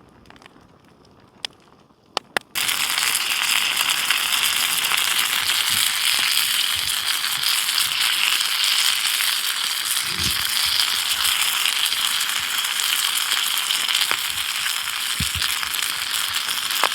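Food frying in a hot pan: a few light clicks, then about two and a half seconds in a loud sizzle starts suddenly as the food goes into the hot pan, and it keeps on, crackling.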